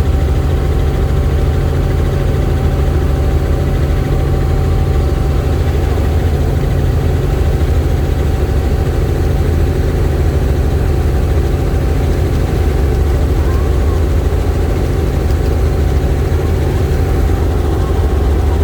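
Helicopter engine and rotor noise, a loud steady drone with a strong low hum that holds even throughout.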